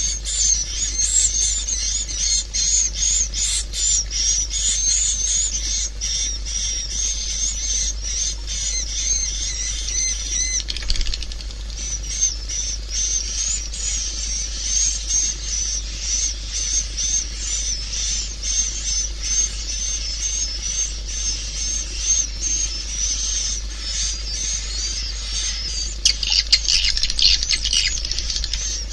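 Recorded swiftlet calls: a dense, continuous chorus of rapid high chirps and chittering twitters, with a louder, denser flurry near the end and a steady low hum underneath. This is the kind of swiftlet call track played through tweeters to lure swiftlets into a nesting house.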